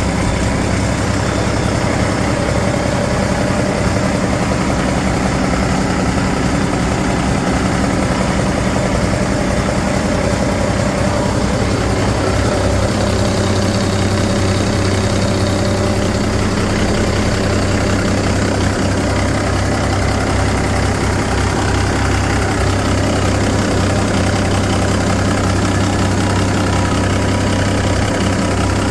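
2006 Cummins ISX 15-litre turbocharged six-cylinder diesel engine idling steadily on a test run.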